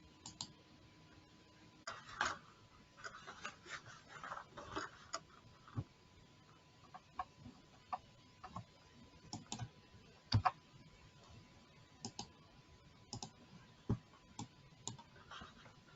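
Sparse, irregular faint clicks and taps, a few a second at most, with a faint steady high hum underneath.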